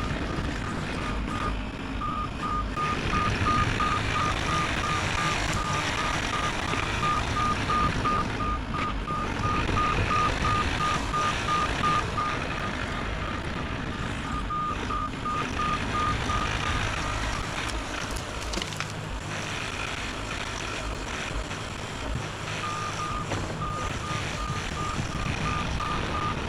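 Bobcat E50 mini excavator running while its travel alarm gives a rapid string of beeps. The beeping stops for a moment partway through, then pauses for several seconds past the middle before starting again near the end, as the machine tracks and stops.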